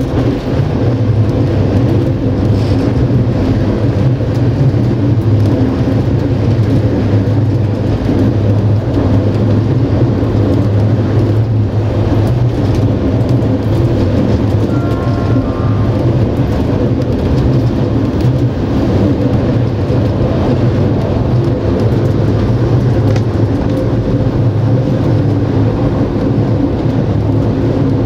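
Passenger railway coach running at speed on the track, heard from inside the carriage: a loud, steady rumble of wheels on rails with a deep steady drone underneath.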